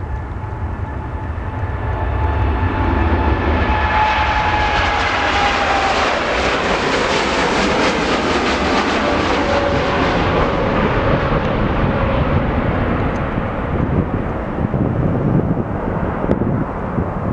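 Jet airliner passing close by, its engine noise swelling to a loud rush and easing off again, with an engine whine that falls slowly in pitch as it goes past.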